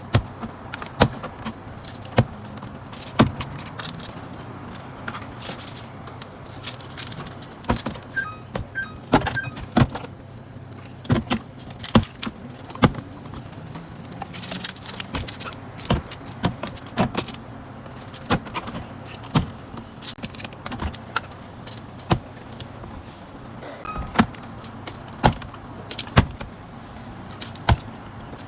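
Small plastic bottles and food containers being set down and knocked against each other and the fridge shelves, a string of irregular clicks and clinks over a low steady hum.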